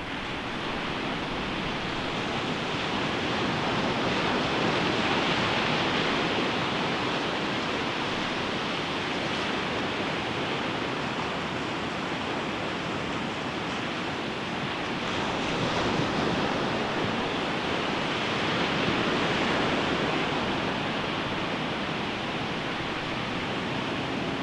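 Ocean waves breaking on a beach: a continuous rush of surf that swells louder as each wave breaks, every several seconds.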